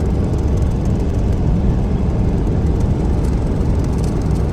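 Semi truck driving, heard from inside the cab: engine and road noise as a loud, steady low drone.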